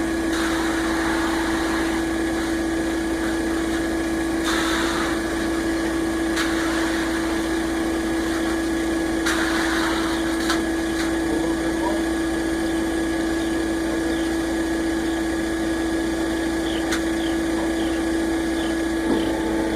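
Concrete mixer truck's engine running steadily with a constant hum while it delivers concrete. A few brief rushes of noise come and go over it.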